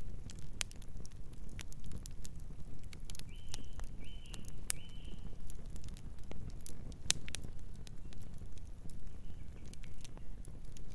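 Wood fire crackling with scattered sharp pops over a steady low rumble of the flames. A distant bird gives three short calls in quick succession a few seconds in, and calls faintly again near the end.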